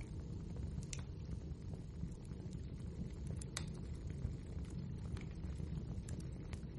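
Wood fire burning in a fireplace: a steady low rumble with scattered sharp crackles and pops, the clearest about a second in, midway and near the end.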